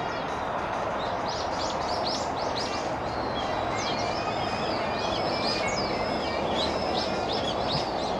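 Many small birds chirping and twittering in rapid, overlapping high calls over a steady low background hum.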